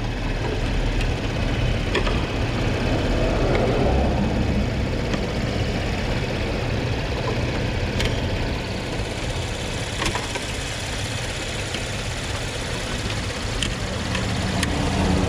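A car engine idling steadily, with a few light clicks from the plastic headlight housing being handled and pressed into place.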